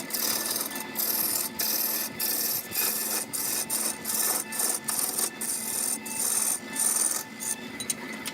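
Wood being cut or scraped by a tool in quick repeated strokes: a hissing rasp with short breaks between strokes, over a steady faint machine hum.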